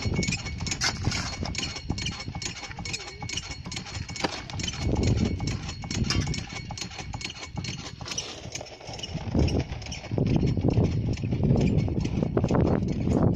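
Rocks and gravel clattering with many irregular knocks. A faint steady motor whine runs underneath for the first several seconds.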